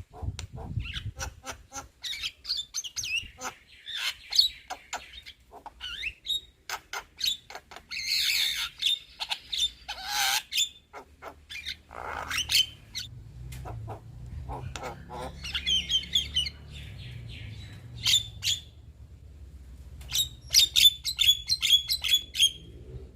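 Young Javan myna (white-vented myna) singing and chattering: a varied run of sharp clicks, short whistled notes and harsh rasping calls, ending in a rapid string of repeated notes.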